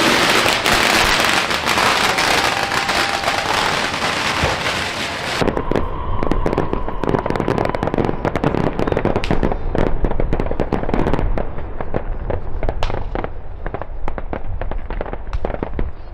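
Fireworks going off: a dense crackling hiss for the first five seconds or so, then a rapid, irregular string of sharp firecracker bangs.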